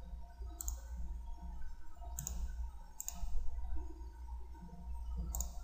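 Computer mouse clicking: a handful of separate, sharp clicks at irregular intervals over a low steady hum.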